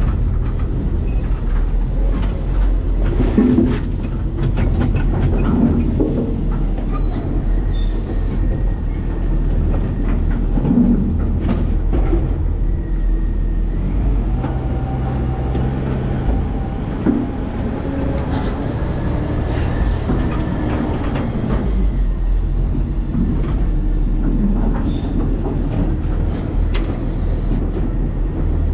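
Garbage truck with a New Way Sidewinder side-loader body, heard from inside its hopper: a steady low rumble from the truck with the metal body rattling and clanking throughout.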